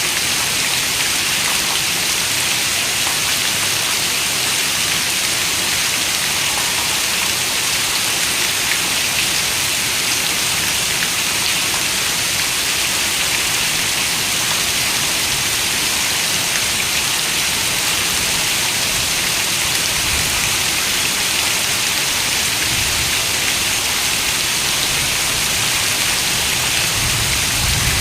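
Steady rain falling, an even hiss of raindrops on surfaces with no break, and a few brief low rumbles in the second half.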